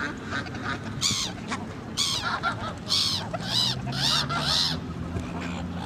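A flock of waterbirds calling: a run of about six loud, harsh, high-pitched calls, roughly one a second, over more distant calling.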